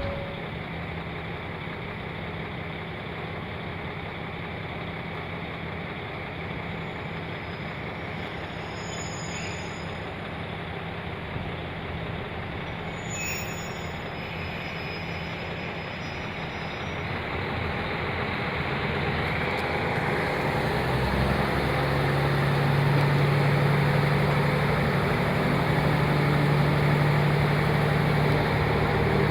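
Cabin noise of a KiHa 40 diesel railcar. It runs steadily at first, then the diesel engine takes up load and grows louder from about 18 s in, settling into a deep steady drone as the train pulls away and accelerates.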